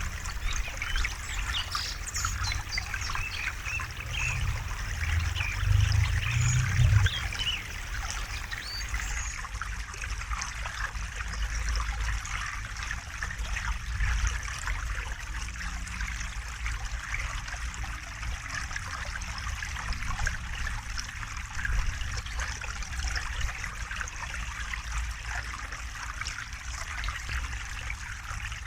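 River water babbling and trickling over stones, with a constant gurgling hiss and a low rumble that swells briefly about five to seven seconds in.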